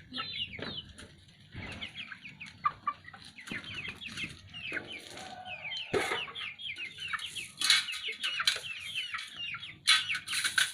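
Young village chickens (ayam kampung), about two months old, peeping over and over in short falling high-pitched calls, with a few knocks among them.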